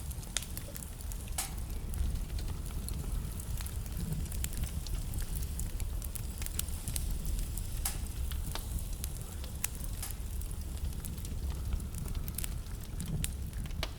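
Wood fire burning in a fireplace: a steady low rumble with scattered, irregular sharp crackles and pops from the burning wood.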